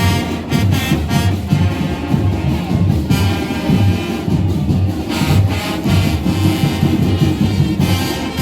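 Marching band playing, with brass instruments carrying the tune over drums.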